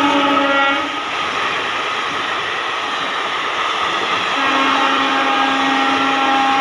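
Indian Railways WAP4 electric locomotive passing at speed with an express train: its horn drops slightly in pitch as it goes by and stops about a second in, then the coaches rush past with steady wheel and rail noise. A long, steady horn tone comes in again about four seconds in.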